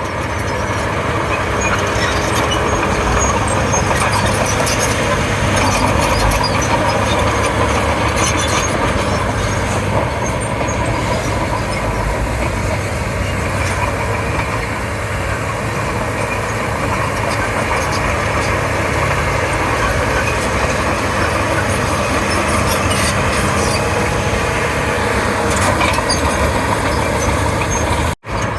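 Komatsu D31P crawler bulldozer's diesel engine running steadily under work, with scattered metallic clicks and clanks from the machine.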